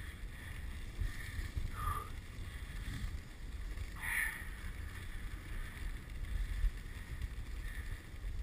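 Dog sled running over a snow trail: a steady low rushing noise from the runners with wind on the microphone, and a couple of faint short squeaks.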